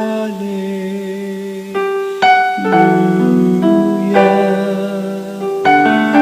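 Keyboard with a piano sound playing a slow worship song: sustained chords, with a new chord struck every second or two.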